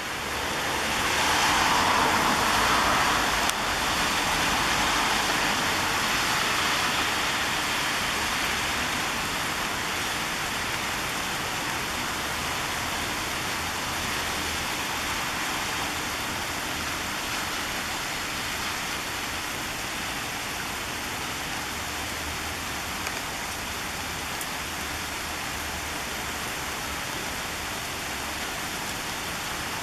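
Heavy rain falling steadily, as an even hiss, louder for the first few seconds and then settling.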